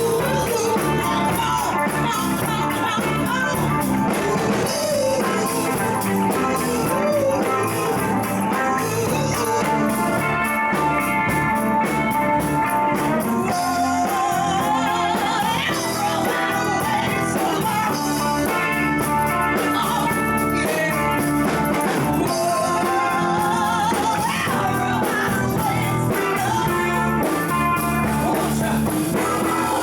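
Live band jamming rock music, with a wavering, bending melody line over a steady rhythm.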